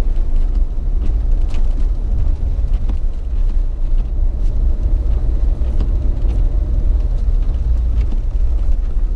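Jeep driving on snow-covered town streets: a steady low rumble of engine and tyre noise.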